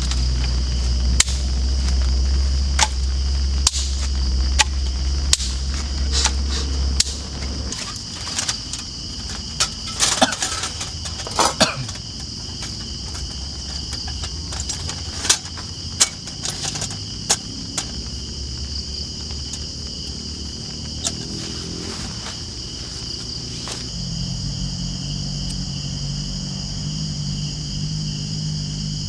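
Tropical forest crickets and other insects chirring steadily, with scattered sharp clicks and knocks, several in quick succession about ten seconds in. A low hum underlies the first several seconds.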